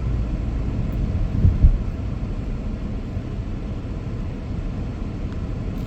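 Car being driven, with a steady low road and engine rumble heard from inside the cabin. A short low thump about a second and a half in.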